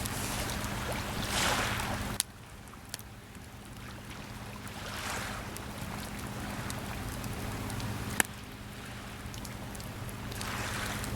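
Small waves washing onto the shore, swelling about every four to five seconds, with a few sharp pops from a wood campfire.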